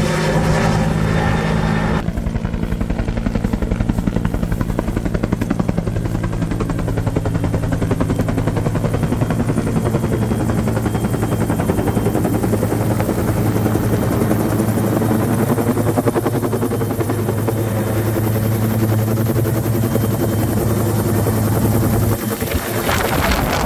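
Firefighting helicopter running steadily with an even rotor-blade beat and a constant low engine tone. The sound turns duller about two seconds in and dips briefly near the end.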